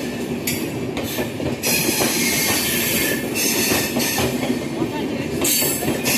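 Passenger train rolling past while departing: a steady rumble of steel wheels on rail with clicks over the rail joints, and a high hissing squeal that comes and goes every second or so.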